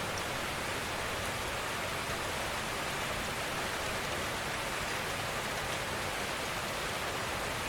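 Steady rainfall: an even, continuous hiss of rain falling on a surface, with no distinct drops or gusts standing out.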